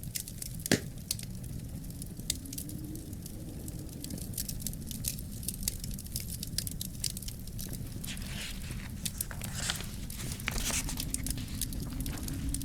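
Wood fire crackling in a fireplace: a steady low rumble of flames with many sharp pops and snaps, one loud pop about a second in, and short spells of hissing about two-thirds of the way through.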